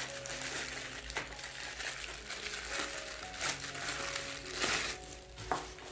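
Plastic packaging crinkling and rustling as it is handled and pulled open, louder in spells, over soft background music.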